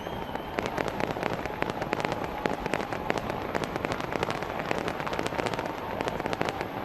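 Fireworks crackling: a dense, rapid run of sharp pops starting about half a second in, over a steady rushing noise.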